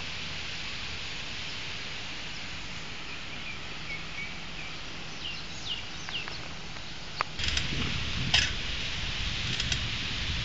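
Small birds chirping, a string of short falling calls in the middle, over a steady outdoor hiss. Near the end come a few sharp clicks and a rustling burst with low rumble.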